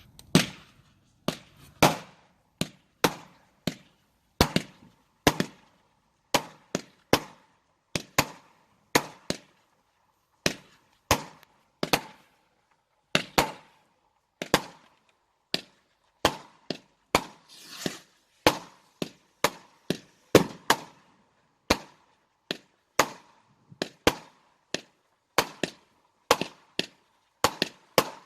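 Fireworks going off in a long run of sharp bangs, about one or two a second, some with a short crackle or echo after them and a brief hiss about halfway through.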